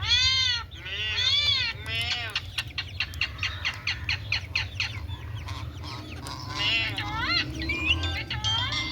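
Parrot calling: a few arching squawks, then a quick run of clicking chatter, then rising whistled notes near the end.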